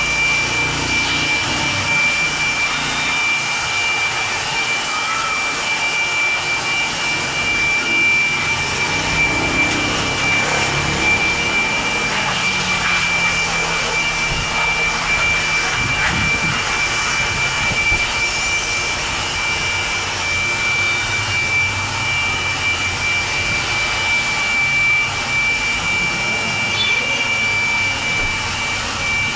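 A high-speed motor-driven machine running steadily, with a constant high whine over a rushing hiss; it spins up just before and holds level throughout.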